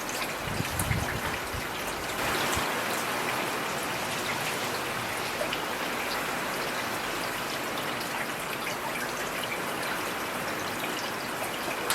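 Heavy rain falling steadily, with many individual drops ticking through a constant hiss, and a brief low rumble about a second in.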